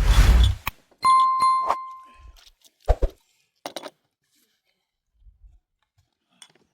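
A short rough rustle, then a metal object is knocked about three times and rings with a clear bell-like tone that dies away after about a second, followed by a dull knock.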